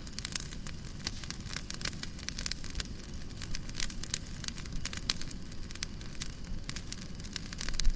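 Fireplace crackling: a wood fire popping and snapping in irregular sharp clicks over a low steady rumble, with a louder pop near the end.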